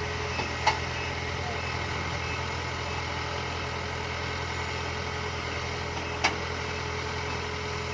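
Heavy machinery engine idling steadily with a low drone. Two sharp clicks sound over it, one just after the start and one about six seconds in.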